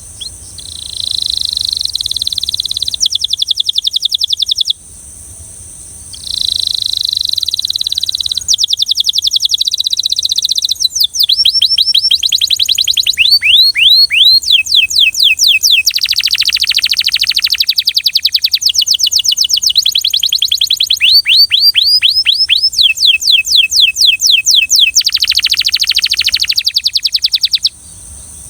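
Belgian canary singing: rolling trills and runs of fast, sweeping, repeated notes, with a short pause about five seconds in. The song stops just before the end.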